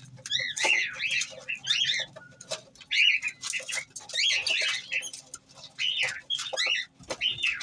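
Small birds chirping busily: many short, arching high chirps in quick clusters, with scattered sharp clicks.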